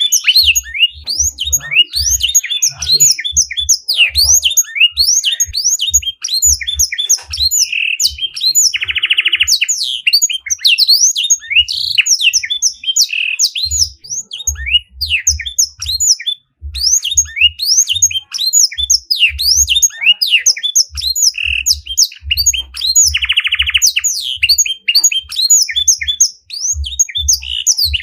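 A small songbird singing continuously: a fast run of high chirps and sweeping whistles, broken twice by a harsh buzzy trill lasting about a second, with soft low thuds underneath.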